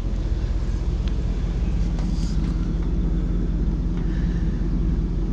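Vehicle engine and road noise making a steady low drone, with a few faint ticks.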